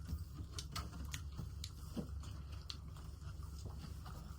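Close-up eating sounds: mouth clicks, smacks and bites at an irregular pace while chewing food, over a steady low hum.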